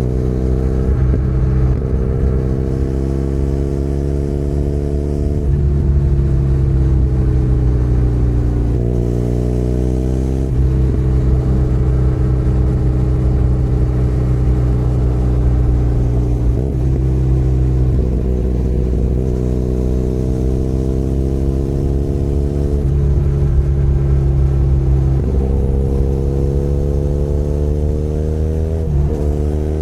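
Benelli Leoncino 500 Trail's 500 cc parallel-twin engine running under way. Its pitch climbs slowly and then falls back several times as the rider rolls on and off the throttle or changes gear.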